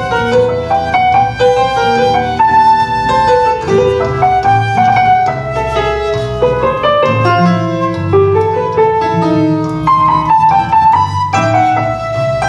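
Live instrumental music: an ensemble playing a Baroque piece arranged in several parts from a solo-instrument original, with quick notes moving in interwoven lines.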